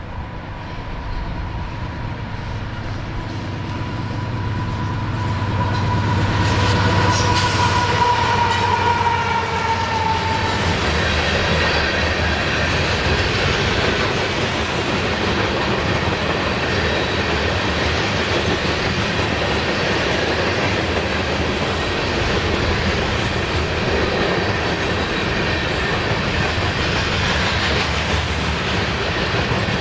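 CSX diesel freight train passing close by: the locomotives come up with a low engine hum and a steady high-pitched tone that drops in pitch and fades about ten seconds in. The freight cars follow with a steady rolling rumble and clatter of wheels on rail.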